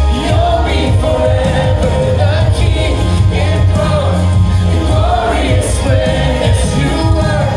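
Live gospel worship music: a band with heavy bass accompanies group singing.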